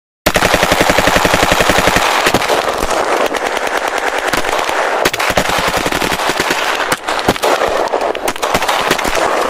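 Automatic-gunfire sound effect: a very fast, even rattle of shots that starts abruptly, then turns into a denser, crackling stream of rapid fire after about two seconds.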